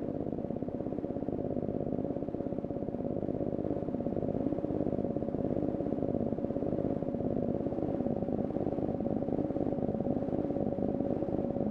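Computer-synthesized hurricane data sonification: a steady, buzzing drone of stacked low tones with a rapid fine pulse, holding at an even level throughout.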